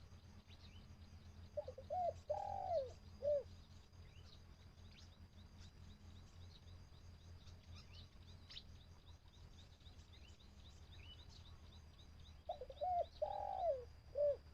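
Decoy spotted dove cooing: two calls of a few coos each, about ten seconds apart.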